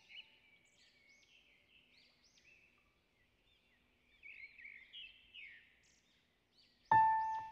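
Small birds chirping, many short high chirps repeating over a faint outdoor hush. Near the end a piano note comes back in loudly.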